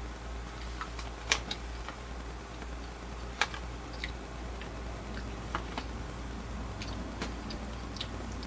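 Sparse, irregular small clicks and ticks of a person chewing a piece of smoked salmon jerky, over a steady low room hum. The two loudest clicks come about a second and a half and about three and a half seconds in.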